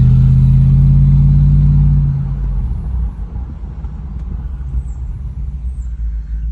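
2004 Lexus GX470's 4.7-litre V8 running through an R4T cat-back exhaust at a low parking-lot speed. A deep steady drone edges slightly up in pitch, then drops to a quieter rumble about two seconds in as the throttle eases.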